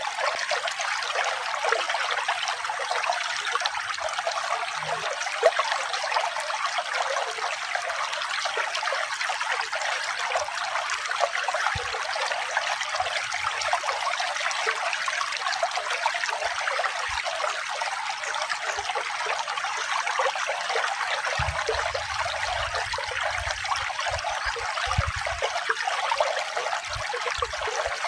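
Running water trickling steadily, an even, unbroken splashing rush with no rise or fall.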